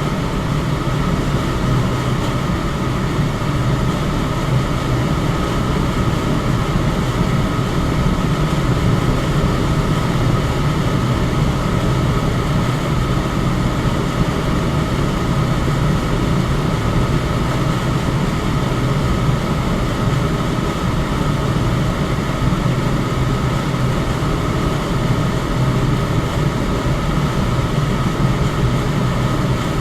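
Electric fan running steadily: an even rush of moving air with a low hum and a faint steady whine, unchanging throughout.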